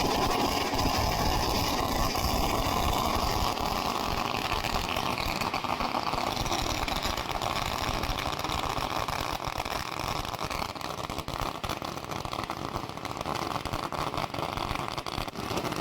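A long string of Chinese firecrackers going off in a dense, rapid crackle of bangs, slightly less loud after about ten seconds.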